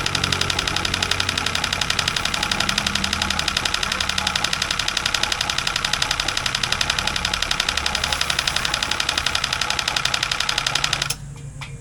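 Car wash machine's repaired single-phase dual-capacitor electric motor running under power with a fast, even pulsing. It switches off abruptly about eleven seconds in.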